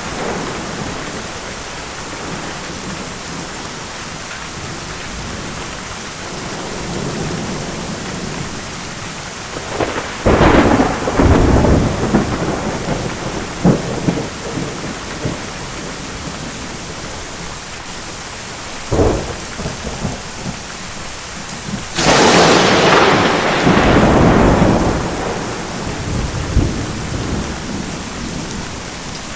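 Thunderstorm: steady heavy rain with rolling thunder, three loud claps about ten, nineteen and twenty-two seconds in, the last the loudest and rumbling away over several seconds.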